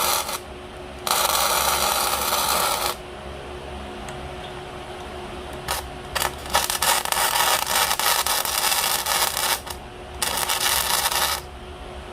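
Arc welding on steel: the arc crackles and sizzles in four or five separate runs of one to three seconds each, tacking a part of a homemade hydraulic log splitter in place. A steady hum runs underneath.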